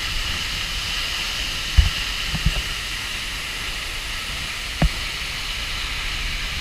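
Steady rush of a waterfall's falling water, a constant hiss. A few dull low thumps come through about two, two and a half and five seconds in.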